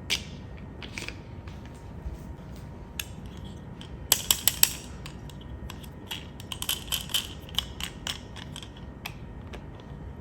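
Sharp clicks and light clatter of small hard objects being handled, coming in quick clusters about four seconds in and again a couple of seconds later, over a steady low background noise.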